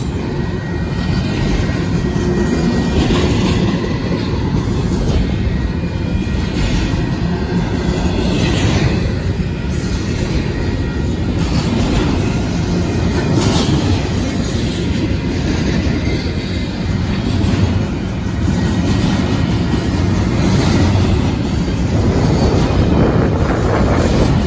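Double-stack intermodal freight train rolling past at close range: a steady heavy rumble of steel wheels on rail, with scattered clacks as the wheels cross the rail joints and the crossing.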